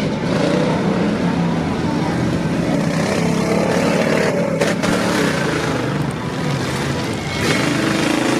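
Off-road mud truck's engine revving hard, its pitch rising and falling, over a steady noisy rush.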